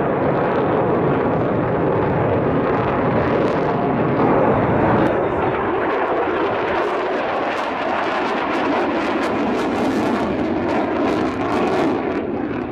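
Aircraft flying past: a loud, steady engine rush, with a run of sharp crackles from about six seconds in.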